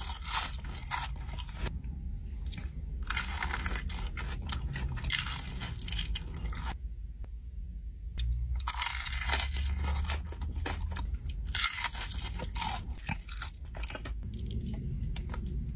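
Close-up chewing and crunching of crispy fried food, in crackly bursts a few seconds long with short pauses between, over a steady low hum.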